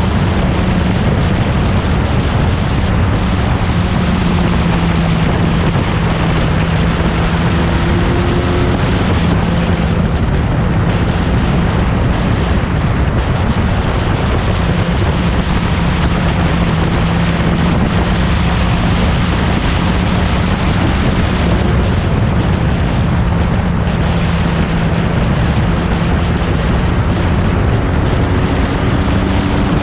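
1960s prototype racing car engine running loud and steady, its note holding fairly constant with small rises and falls in pitch, over heavy rushing noise.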